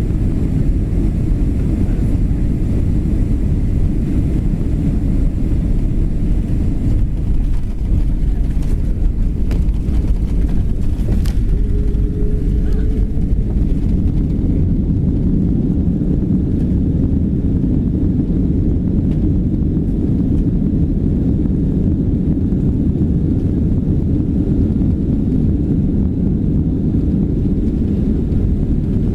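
Steady loud low rumble of a Boeing 767-300 heard from inside the cabin during landing, with a few sharp clicks and rattles about 8 to 11 seconds in.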